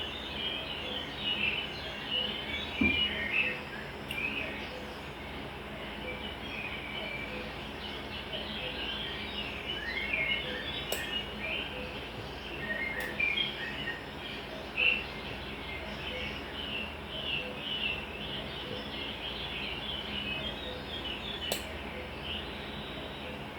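Many small birds chirping and twittering continuously in overlapping calls, with now and then a faint sharp click.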